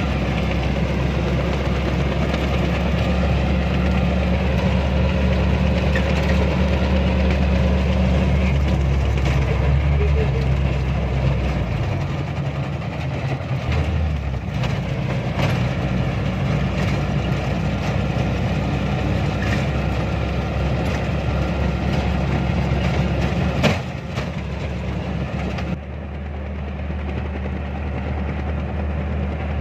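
A vehicle's engine running steadily with a low hum. It shifts in tone about twelve seconds in, and there is a single knock near the end before the sound turns duller.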